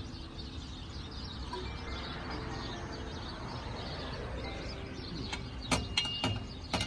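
Metal tools clanking during a tire change: a quick run of sharp clanks in the last second and a half, one leaving a brief metallic ring, over a steady low rumble of outdoor background noise.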